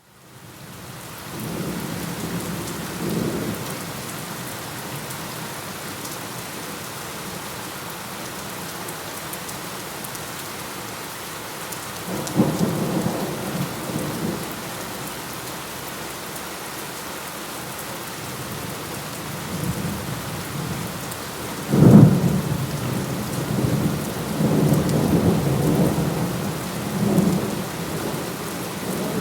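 Steady heavy rain with rolling thunder, the rain fading in from silence at the start. Low thunder rumbles come near the start and again about twelve seconds in, then a sharp thunderclap about 22 seconds in, the loudest moment, followed by several seconds of rolling rumble.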